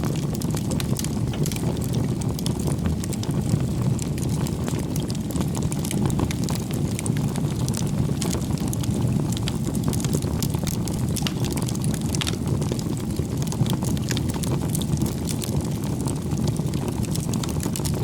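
Bonfire of firewood burning: a steady low rush of flame with frequent sharp crackles and pops.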